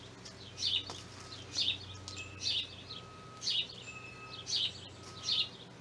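A bird chirping over and over, one short chirp about every second, with faint thin whistles between the chirps.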